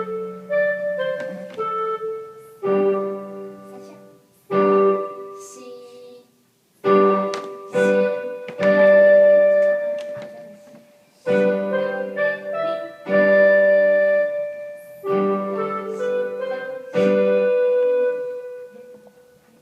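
Piano playing a slow piece in struck chords, each chord ringing and fading before the next, with the last chord held and dying away near the end.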